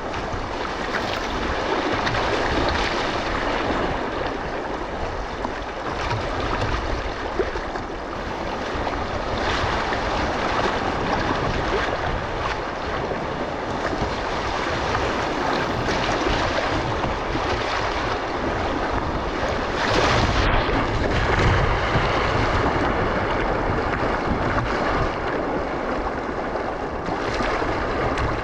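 River water rushing steadily through a shallow rapid, with wind rumbling on the microphone.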